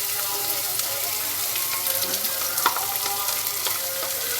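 Onion sizzling as it fries in rendered sheep's tail fat in a pot, with a few sharp clicks of it being stirred, the loudest about two and a half seconds in.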